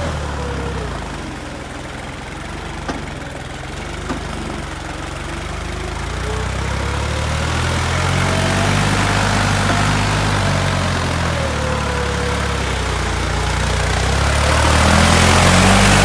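New Holland tractor's diesel engine running steadily with a low, even note. It is quieter for a few seconds near the start, with a couple of faint clicks, then builds and is loudest near the end.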